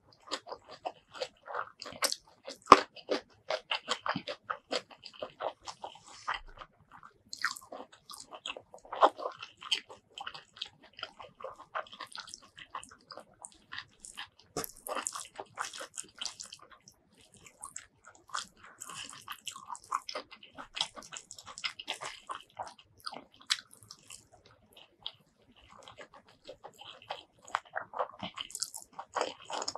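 Close-miked chewing and biting of a mouthful of rice, spicy tomato fish-paste curry and crunchy side vegetables, heard as irregular crunches and mouth clicks.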